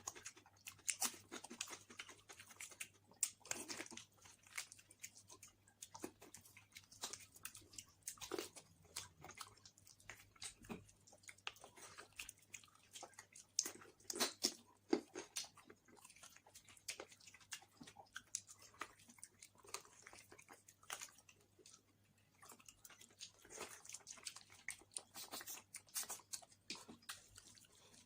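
A person chewing and smacking while eating basmati pulao and mutton curry: a steady run of irregular wet mouth clicks and smacks.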